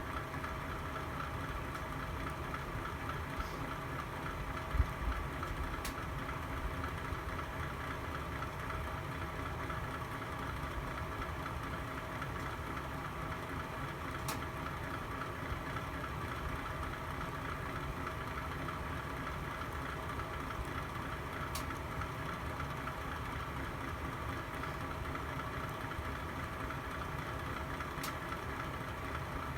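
Fire burning in a home fireplace under a steady hum, with a few single sharp crackles spaced several seconds apart and one low thump about five seconds in.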